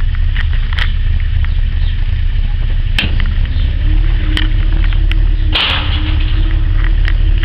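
The 270 cubic inch Red Ram V8 of a 1955 Dodge Royal Lancer running, heard from inside the cabin as a steady low rumble. Scattered light ticks and a short hiss about five and a half seconds in.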